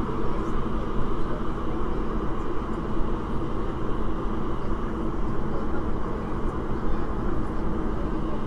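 Kinki Sharyo–Kawasaki electric train of the MTR Tuen Ma line running steadily, heard from inside the carriage: an even rumble of wheels on rail with a steady low hum.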